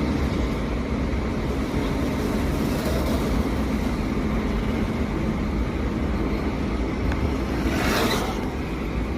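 Steady road and engine rumble of a moving vehicle heard while riding in it, with a brief rushing whoosh about eight seconds in.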